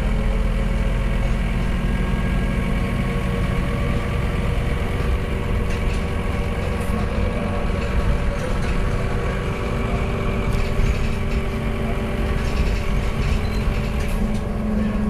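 Scania K230UB bus's engine running at a steady, even pitch, with a strong low hum and a few faint clicks.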